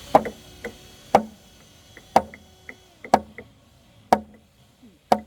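Hand tool striking wood in an even rhythm: six strong blows about a second apart, with lighter knocks between them.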